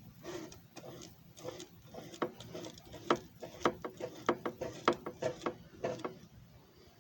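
An irregular run of sharp plastic clicks and clacks with light scraping between them, from the disc repair machine's parts being handled and worked, ratchet-like. The clicks stop about a second before the end.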